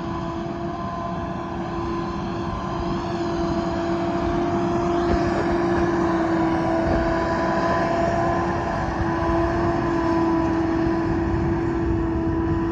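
An engine running at a steady speed: a constant hum with one strong tone over a dense rumble, growing slightly louder about four seconds in.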